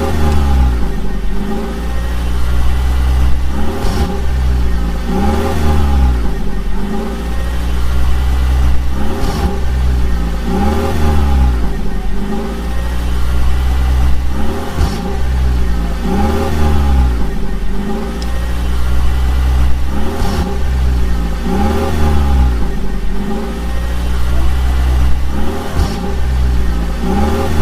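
An engine revving up and down over and over, its pitch rising and falling about every two seconds, over a steady deep rumble.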